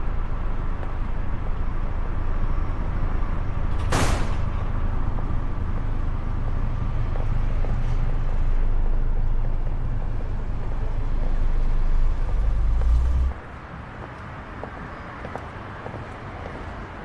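Loud, steady low rumble of a running vehicle, with a single sharp bang about four seconds in. The rumble cuts to a much quieter background about thirteen seconds in.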